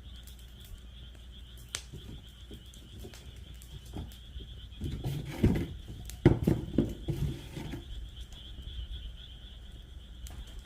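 Wood fire in a fire pit stand crackling with scattered sharp pops, over a steady high-pitched chorus of calling animals. About halfway through there are a few seconds of louder low knocks and rustling.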